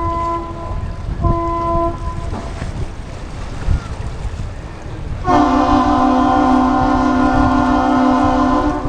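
Horns sounding a salute: two short blasts, then about five seconds in a louder, longer blast from a deeper horn with a chord-like tone.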